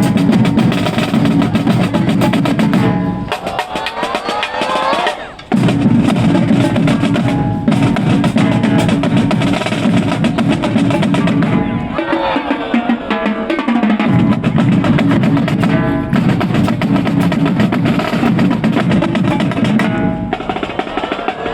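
A marching band playing loudly, with the snare and bass drums prominent. Twice the low drums drop out for a couple of seconds while the band plays rising notes.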